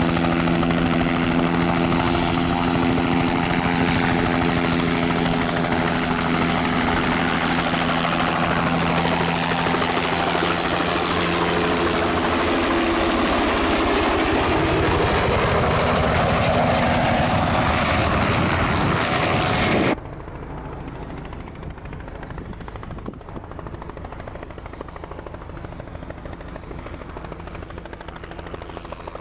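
Helicopter rotor and engine running close by, a steady hum with a dense rush, whose tones bend in pitch as it moves past. About twenty seconds in the sound cuts off suddenly, leaving a fainter, steadier helicopter sound.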